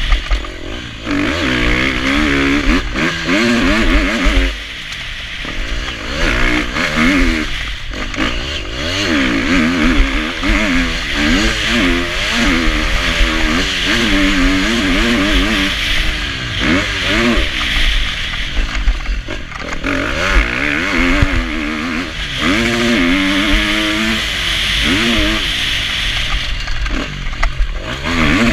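Motocross bike engine revving hard through a lap: its pitch climbs and falls over and over as the rider opens and shuts the throttle and shifts gears, with short dips where the throttle is cut, over a steady rushing hiss.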